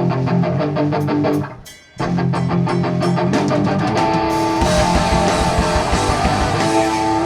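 Live rock band starting a song: electric guitar strums chords in a steady rhythm, breaks off briefly about a second and a half in, then resumes, and drums and the full band come in about four and a half seconds in.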